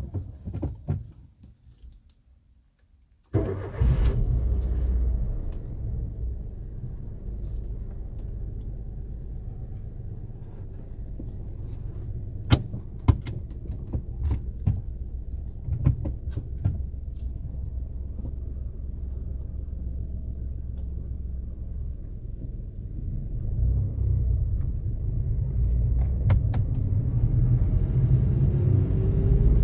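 A few light clicks, then about three seconds in the 2011 Maruti Suzuki Wagon R's 1.0-litre three-cylinder petrol engine starts with a brief flare and settles into a steady low running sound, heard from inside the cabin as the car drives off. Near the end the engine grows louder and rises in pitch as the car gathers speed.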